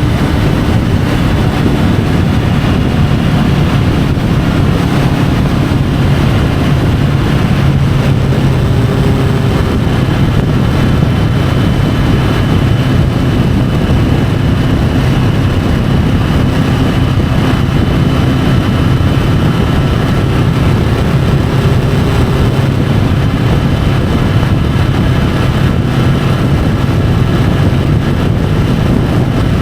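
Triumph Tiger 850 Sport's three-cylinder engine running steadily at speed, under heavy wind rush on the bike-mounted camera's microphone.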